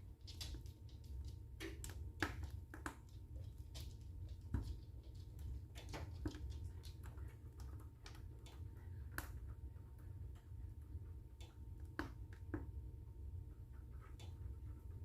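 Wood fire in a fireplace crackling: irregular sharp pops and snaps of varying strength over a low steady rumble.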